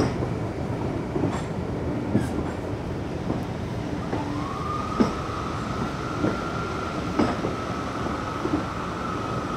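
Heritage diesel train running, a steady low rumble with scattered sharp knocks from the wheels. About four seconds in, a high-pitched metallic squeal slides up and then holds steady.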